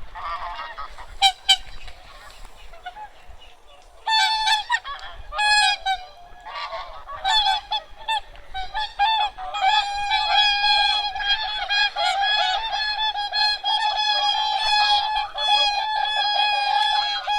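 A large flock of wild geese and swans honking. Scattered calls start about four seconds in and build into a dense, continuous chorus of overlapping honks. A couple of sharp clicks come early on.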